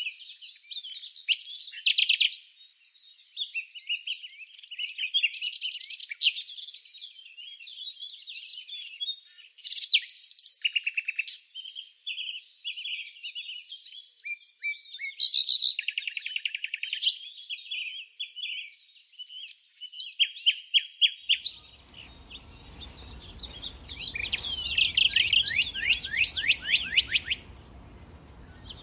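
Several songbirds chirping and singing together, with overlapping calls and rapid trills. About two-thirds of the way through, a faint steady low background hiss joins them.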